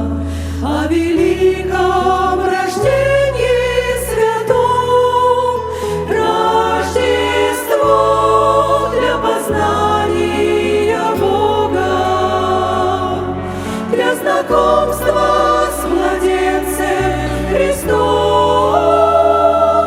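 Choir singing a slow Christmas song with instrumental accompaniment, over sustained bass notes that change every second or two.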